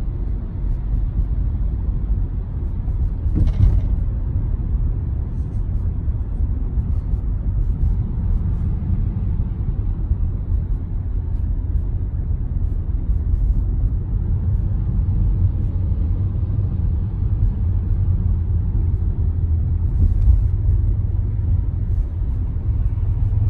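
Steady low road and tyre rumble inside a moving Tesla Model Y, an electric car with no engine to be heard. A brief knock about three and a half seconds in.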